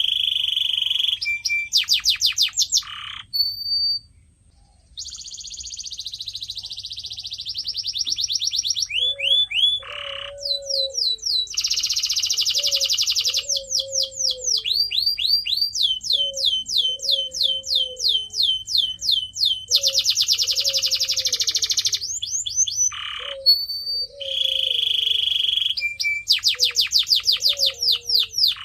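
Domestic canary singing: fast rolling trills and rapid runs of repeated high notes, with a short pause about four seconds in. From about nine seconds in, a low short croaking note repeats roughly every second and a half beneath the song.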